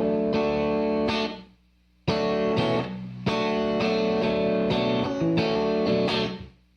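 Clean electric guitar chords played through a Donner Verb Square reverb pedal on its room setting. A chord rings for about a second and dies away quickly, then after a short gap a second chord comes in, is struck again about a second later, and rings until it fades out near the end.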